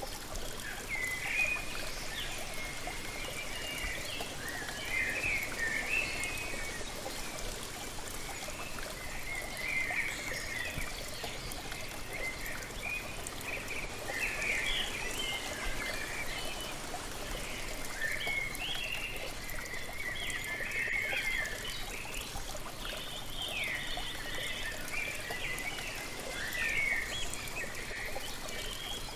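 Waterfall ambience: falling water splashing and trickling steadily, with small songbirds chirping in short phrases every second or two over it.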